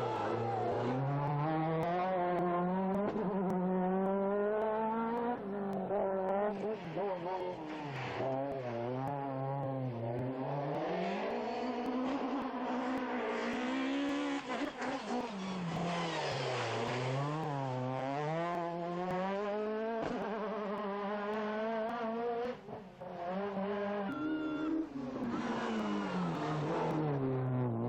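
Rally car engines at full racing speed on a stage, revving hard. The engine note repeatedly climbs and drops sharply as the gears change.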